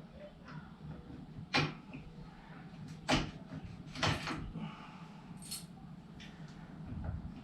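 Metal motorcycle parts clinking and knocking as a front fork tube is worked up through the headlight bracket and upper trim: four separate sharp knocks a second or so apart, the third a little drawn out.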